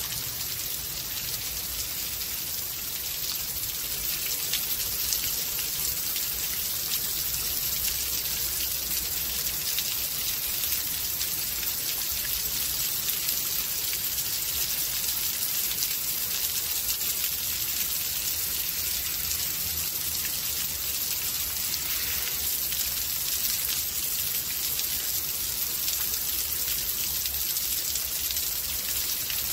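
Rainstorm: steady rain falling, a dense hiss of many small drops striking surfaces.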